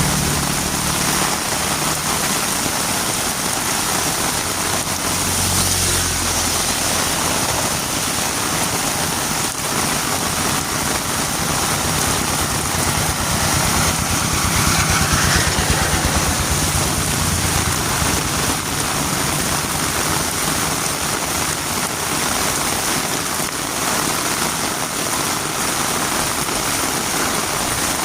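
Heavy rain falling steadily on a road. Under it, a vehicle engine runs with a low hum at the start and again through the middle.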